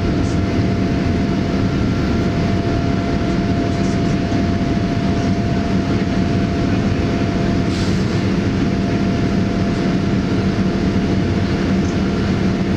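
Steady rumble and hum of a Boeing 787 Dreamliner's cabin, unchanging throughout.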